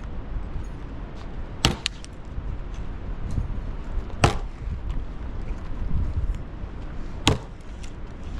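Sharp knocks at a fairly regular pace, about three seconds apart, over a steady low rumble.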